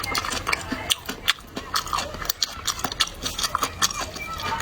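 Close-up chewing and mouth sounds from a person eating, with many quick, irregular wet clicks and crunches.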